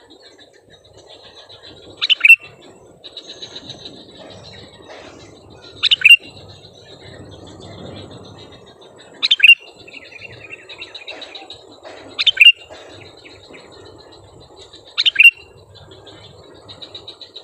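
Sooty-headed bulbul (kutilang) calling loudly and close by: five short, double-noted calls, one every three to four seconds. Faint high twittering of other birds runs underneath.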